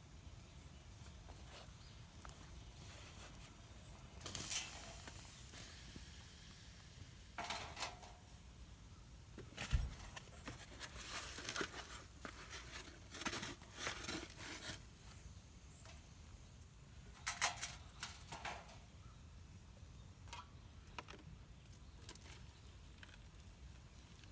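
Scattered rustles, clicks and light knocks from something being handled, over a faint steady hiss, with one low knock about ten seconds in.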